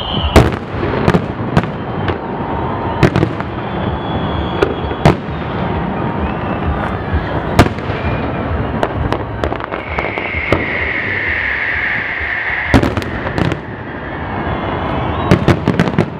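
Fireworks display: shells bursting with sharp bangs at irregular intervals over a continuous crackle. A high whistling tone is held for about three seconds past the middle.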